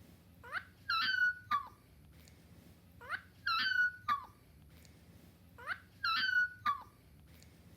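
Dog yawning three times with a squeaky whine: each yawn starts with a rising squeak, holds a high whine for about half a second, then ends in a short falling squeak, repeating about every two and a half seconds.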